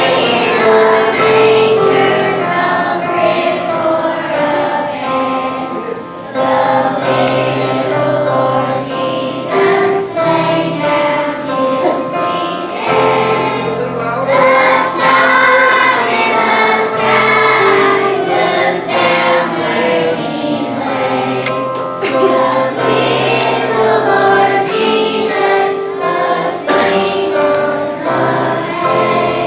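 Young children's choir singing a song, with sustained low accompanying notes underneath.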